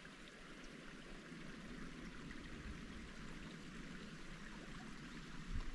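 Faint, steady rushing noise outdoors, like distant running water or wind, with a few light ticks and a low thump near the end.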